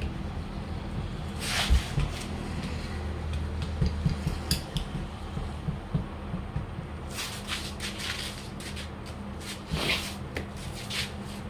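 Scattered light metallic clinks and knocks of hand tools being handled during truck tyre tube repair, with a couple of brief rubbing swishes, over a steady low hum.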